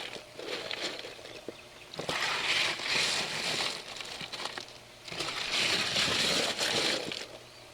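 Lava rock grow-bed media pouring and rattling into the bed in two long rough pours, with scattered clicks of stones knocking together.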